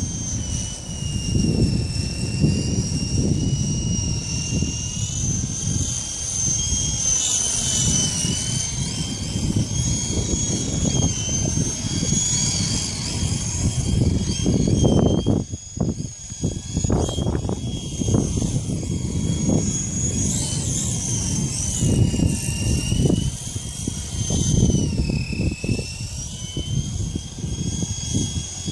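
FX070C RC helicopter's small electric motor and rotor whining at a high pitch that wavers up and down as it holds against the wind. Heavy gusts of wind buffet the microphone with a low rumble throughout, easing briefly about halfway through.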